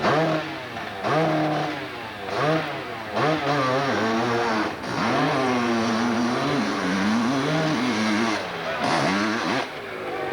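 Motorcycle engine revved hard in repeated bursts, its pitch climbing and dropping about once a second as the throttle is worked on a hill climb.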